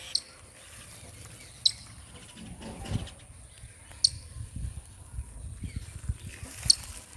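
A baby bird calling: four short, high-pitched chirps spaced a second or more apart, over a low, uneven rumbling noise.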